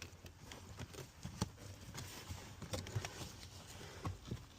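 Faint scattered clicks and rustling of a new cabin air filter being slid up into its plastic housing, with one sharper click about a second and a half in.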